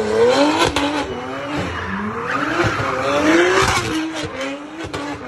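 BMW M3 with a Strada Performance exhaust revving up and down over and over while spinning, its rear tyres squealing, with several sharp cracks from the exhaust along the way.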